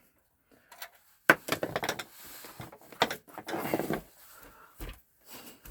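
Clicks, knocks and clattering of hard parts being handled, with a sharp click about a second in and a dull thump near the end: the computer's case and parts being worked on during disassembly.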